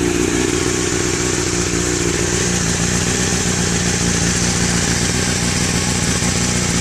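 2007 Honda CBR1000RR's inline-four engine idling steadily through a Micron slip-on exhaust, holding an even pitch with no revs.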